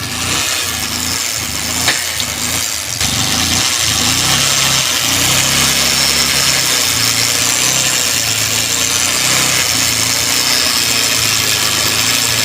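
Bajaj Pulsar 150's single-cylinder engine running at idle with an abnormal noise that sounds very bad, its cause unknown. It gets louder about three seconds in and then holds steady.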